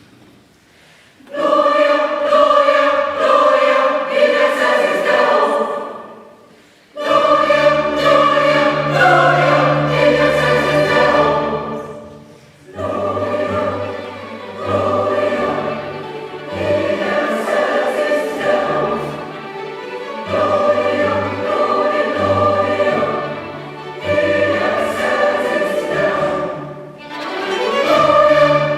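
Mixed choir and chamber orchestra performing a choral Mass in sustained chords. The first phrase enters about a second in and dies away, and the next comes in with low strings under the voices.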